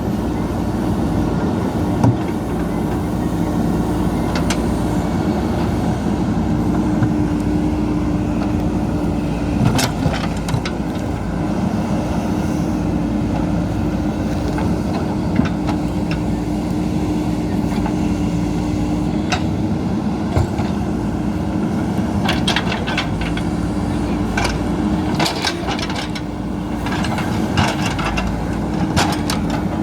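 JCB backhoe loader's diesel engine running steadily at an even pitch, with scattered sharp metallic knocks, most of them in the last third.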